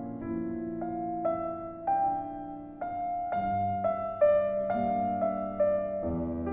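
Background music: a slow, gentle piano piece, single melody notes over held lower notes.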